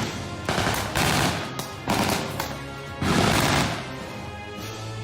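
Several bursts of gunfire in a mock street battle, with background music underneath.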